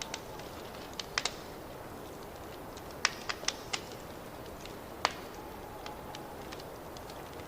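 Wood fire crackling in a fireplace: a steady low hiss with sharp, irregular pops and snaps, a cluster of louder ones around three seconds in and a single strong pop about five seconds in.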